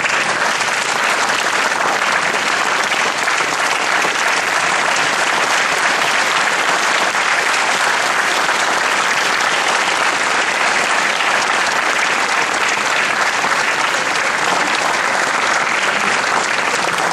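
Audience applauding: dense, steady clapping from a large crowd, loud and unbroken throughout.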